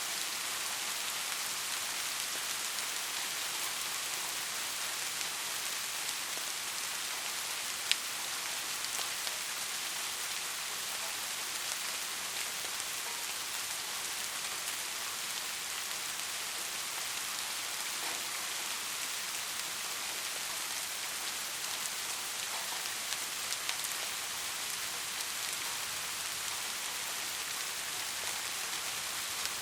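Steady rain falling, an even hiss of many drops, with one sharp tick about eight seconds in and a few lighter ones later.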